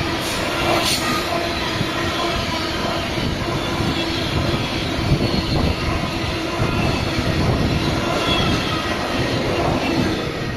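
A train passing close by: the steady, loud rolling noise of its wheels on the rails, with faint steady tones over it.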